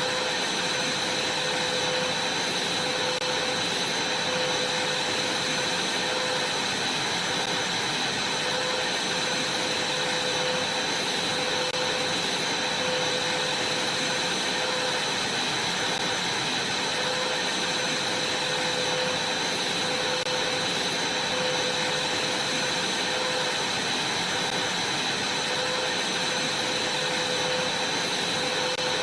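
Vacuum cleaner running steadily, a continuous rush of air with a high, steady whine.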